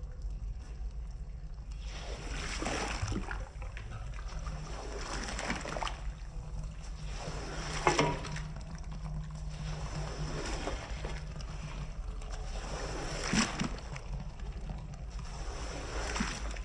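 A wet rug being worked over in repeated swishing strokes, with water sloshing and splashing, about every two to three seconds and loudest twice, over a steady low hum.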